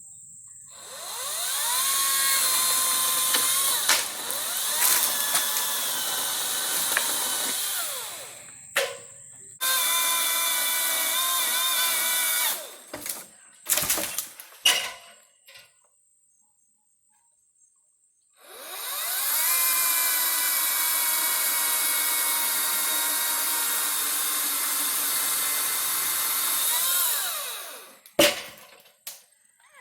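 Hart 14-inch battery chainsaw's electric motor spinning up with a rising whine, running steadily while pruning tree limbs, then winding down; this happens three times, with a few sharp knocks in between.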